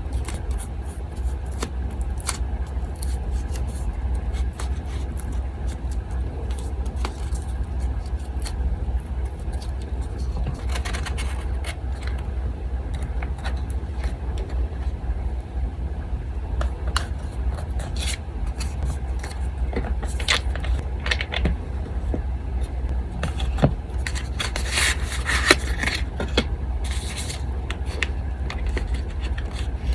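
Paper being handled for a collage: scattered rustling, scraping and light taps, busier about a third of the way in and again near the end. An electric fan hums steadily underneath.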